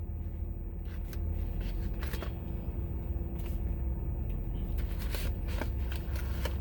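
Takeout food packaging being handled, with short bursts of rustling and crinkling over a steady low rumble.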